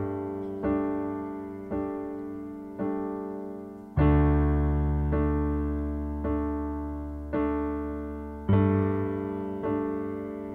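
Keyboard accompaniment playing slow chords in the pause between sung lines, a new chord struck about once a second and fading away, with fuller, deeper chords about four seconds in and again near the end.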